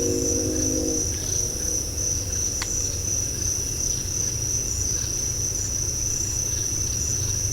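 Night insect chorus of crickets, a steady high-pitched drone over a low steady rumble. A short low tonal sound fades out about a second in, and a single sharp click comes about two and a half seconds in.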